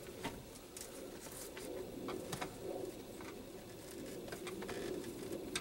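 Faint low bird calls, with a few light clicks from the plastic door-panel clips being pried out.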